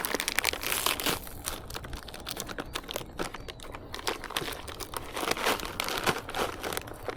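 Crinkly plastic bag of rolled tortilla chips rustling and crackling with many quick, irregular crinkles as it is opened and handled.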